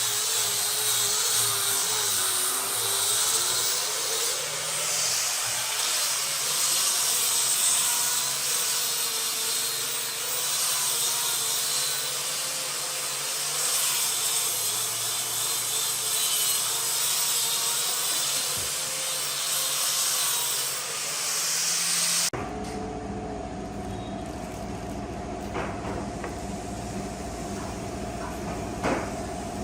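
A power tool working wood, its motor pitch wavering under load. About 22 seconds in it cuts off abruptly, giving way to a steadier mechanical hum with two short clicks near the end.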